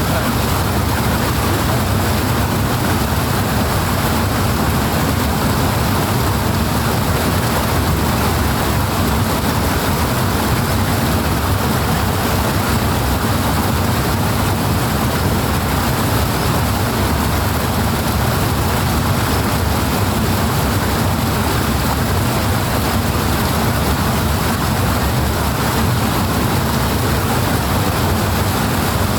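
Rushing water, a loud, even, unbroken noise with most weight in the deep low end.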